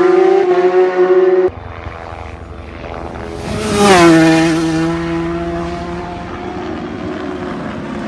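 Racing motorcycle engine held at high revs, cut off abruptly about a second and a half in. Then an engine sweeps past, loudest about four seconds in, its pitch dropping as it goes by, and fades while holding a steady lower pitch.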